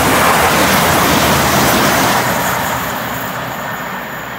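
A train passing through at speed: a loud rush of wheel and air noise that begins to fade about halfway through as the train moves away.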